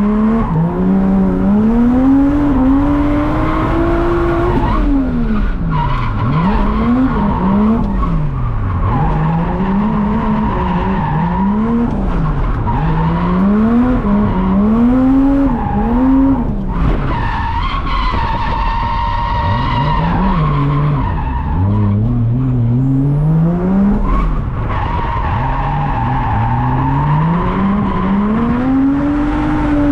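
Drift car being driven hard: the engine revs rise and fall over and over as it is worked up and down, while the tyres squeal steadily through the slides, dropping out briefly a few times.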